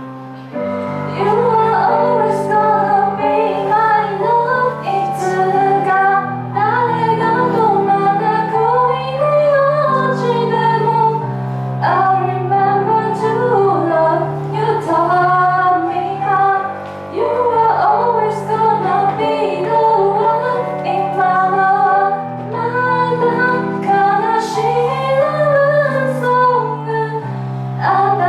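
A woman singing a song with instrumental accompaniment: a wavering sung melody over held bass notes, with occasional light percussion ticks.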